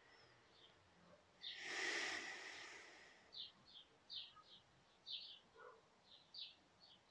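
Small bird chirping in short high notes, a few a second, from about three seconds in. Just before, a soft rushing sound lasting about a second and a half is the loudest thing.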